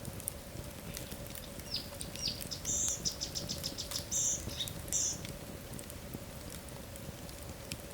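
Wood fire burning with scattered sharp crackles and pops. From about two to five seconds in, a run of high, squeaky chirps sounds over the crackling, and a faint steady hum runs underneath.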